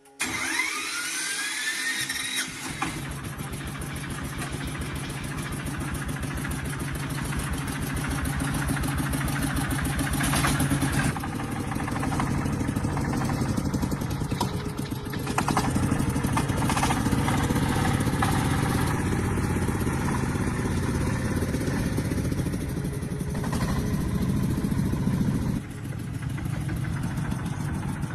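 Tractor engine started: a short rising whine as it spins up, then the engine running steadily with a rhythmic beat, its level rising and falling a few times.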